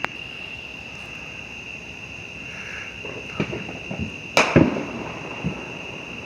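Fireworks going off: a sharp pop right at the start, then a cluster of bangs about three to five and a half seconds in, the loudest near four and a half seconds with a short echoing tail. A steady high chirring of night insects runs underneath.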